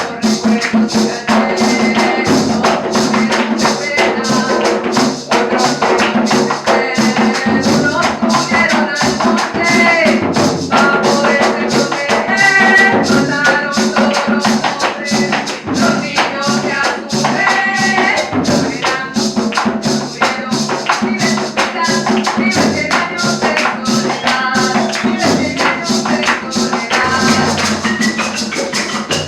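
Live cumbia band playing, with a steady, dense beat of shaken percussion under a melody line.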